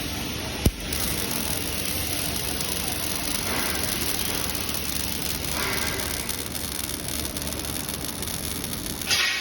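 Steady hissing machine noise of a robotic welding workshop, with one sharp click about a second in and a short louder burst near the end.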